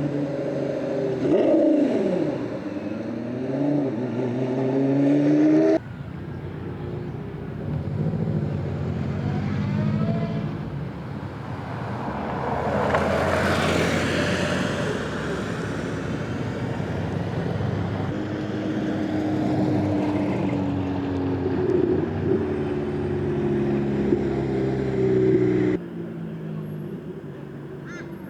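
Sports car engines revving and driving past one after another, their exhaust notes rising and falling, with one car passing close about halfway through. The sound changes abruptly twice as one clip gives way to the next.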